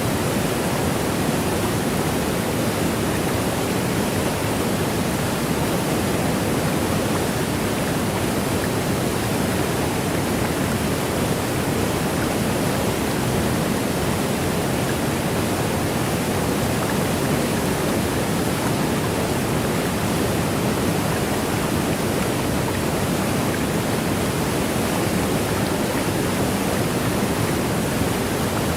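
Waterfall: a steady, even rush of falling water, fullest in the low and middle range, with no separate splashes or other sounds standing out.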